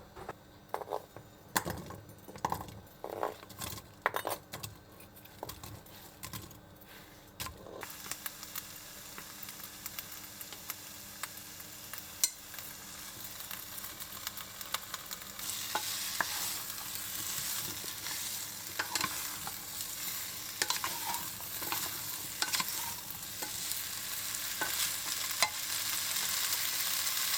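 Chicken and chopped vegetables stir-frying in hot oil in a pot. A few sharp knocks and clicks come first. From about eight seconds in a sizzle sets in and grows louder about halfway through, with the odd tap of the stirring utensil.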